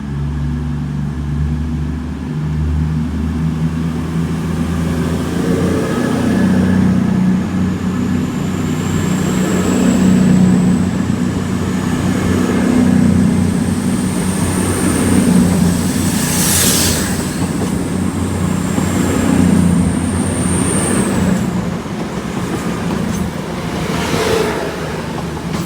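CrossCountry Class 220/221 Voyager diesel-electric units, a coupled pair, running through the station with their underfloor diesel engines. The sound swells towards the middle, with a high steady whine for much of the time and two short sharp noises, one about two-thirds through and one near the end.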